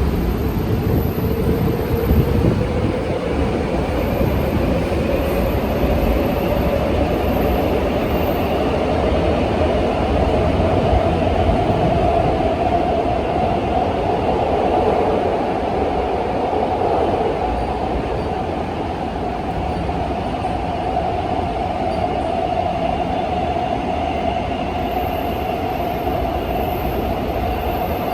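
Seoul Metro 3000-series subway train with GEC chopper control running, over a steady rumble of wheels on rails. Its motor whine rises in pitch over roughly the first ten seconds as the train picks up speed, then holds steady.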